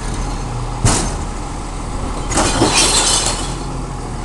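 Burning, exploded wound golf ball: a sharp pop about a second in, then about a second of hissing sputter near the three-second mark, over a steady low rumble.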